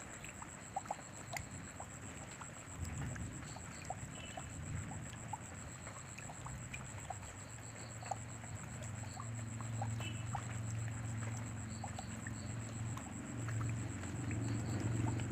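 Rain falling, a steady hiss with scattered sharp drops ticking and plinking close by. A constant high-pitched whine runs through it, and a low hum comes in about three seconds in and grows louder toward the end.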